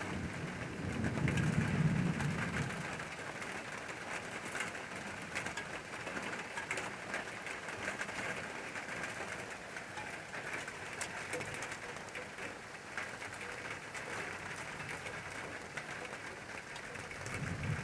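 Steady rain falling, a dense patter of drops. A low rumble swells up about a second in and fades a couple of seconds later, and rises again near the end.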